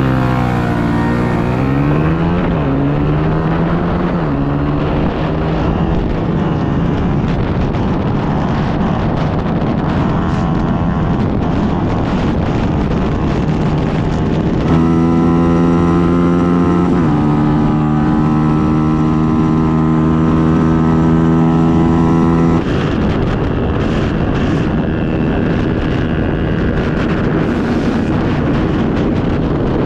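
KTM Duke 250's single-cylinder engine accelerating flat out from a standing start, its pitch climbing and dropping through quick upshifts in the first few seconds. It then runs at high revs at highway speed under heavy wind rush on the microphone. From about halfway through, a strong steady engine note holds for several seconds, dips once, and cuts off suddenly.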